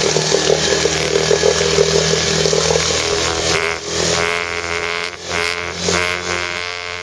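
Parsun 5 hp outboard motor running steadily. In the second half its note wavers and dips several times.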